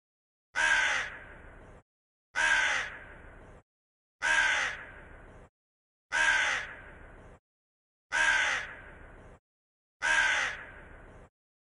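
An animal call repeated six times, about every two seconds, with silence between. Each call starts sharply, drops in pitch, and trails off.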